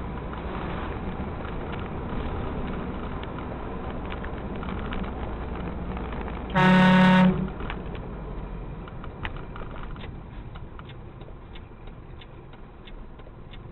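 Steady road traffic noise, with a car horn sounding one short blast about seven seconds in. A run of light ticks follows as the noise fades toward the end.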